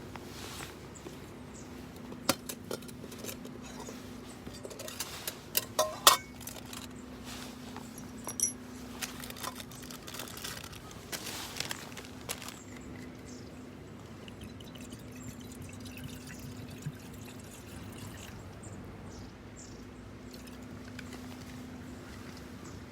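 Water being poured into a pot for camp cooking, with sharp clinks and knocks of metal cookware being handled, the loudest a cluster about six seconds in. A faint steady low hum runs underneath.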